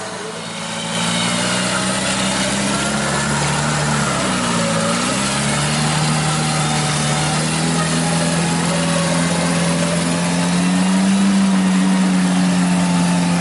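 Off-road jeep engine running at steady, fairly high revs. Its pitch dips briefly about four seconds in, recovers, and rises a little near the end.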